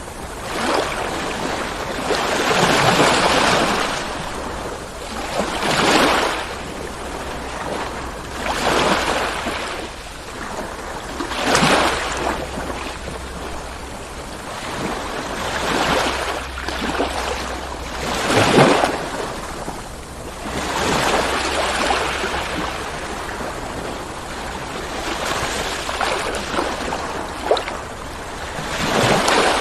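Ocean waves breaking and washing on a shore, surging and falling away about every three seconds, over a faint steady low rumble of surf.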